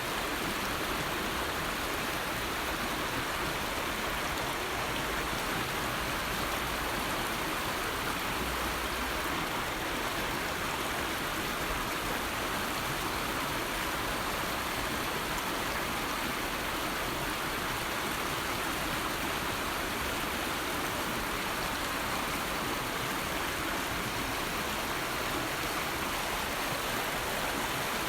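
River water flowing, a steady, even rush of running water with no pauses or changes.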